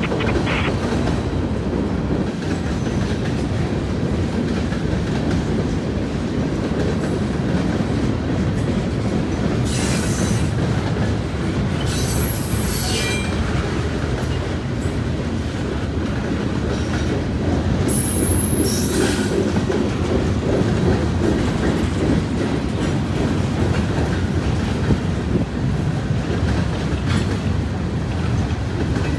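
Norfolk Southern train 350's railcars rolling past: a steady rumble of wheels on the rails, with brief high-pitched wheel squeals twice, about ten and about eighteen seconds in.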